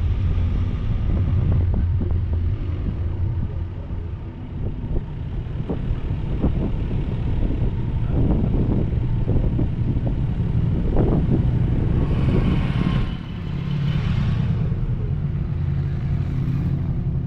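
Motor vehicle driving with a steady low engine and road rumble; short swells of noise come and go in the middle.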